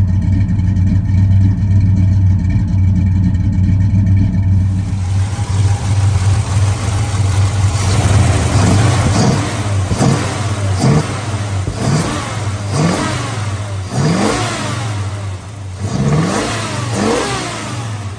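Oldsmobile Cutlass's V8, fuel-injected and running cold after a hard start, idling steadily. From about eight seconds in, the throttle is blipped by hand about eight times; each quick rev rises and drops back to idle.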